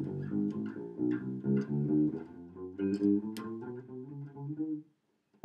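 Wolf KTB fretless six-string electric bass, a run of single notes plucked one after another on its E string, about two to three notes a second, stopping just before the end.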